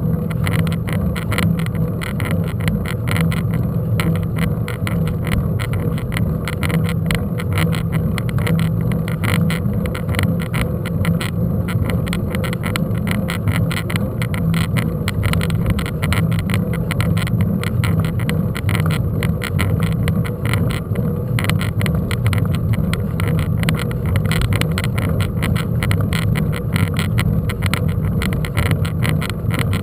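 A vehicle riding over a rough track, heard from a camera mounted on it: a steady low rumble with dense rattling and knocking throughout.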